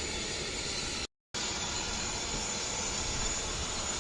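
Private jet's engines running with a steady rush and a thin high whine, broken by a brief dead silence about a second in.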